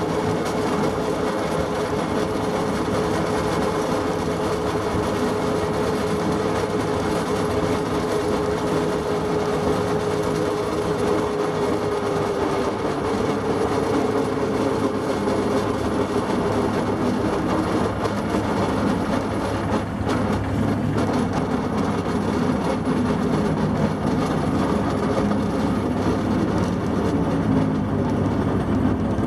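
Plymouth switcher locomotive running steadily while hauling a caboose, with wheels rolling on the rails. A steady tone in the running noise steps slightly higher about twelve seconds in.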